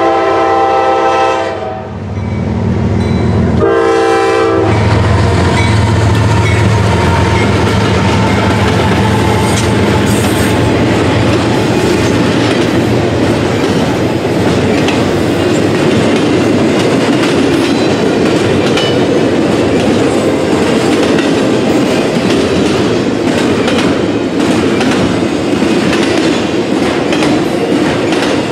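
CSX GE ES44DC's Nathan K3LA five-chime horn sounding: a long blast that ends about two seconds in, then a short blast around four seconds. Then the diesel locomotives pass and the double-stack intermodal cars roll by in a steady loud rumble, with the wheels clicking over rail joints.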